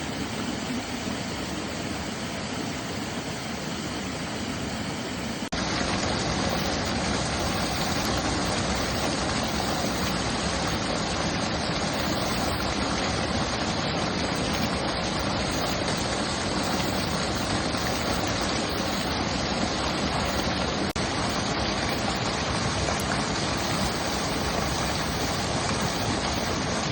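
Mountain stream flowing, a steady wash of water noise that turns suddenly louder and brighter about five and a half seconds in.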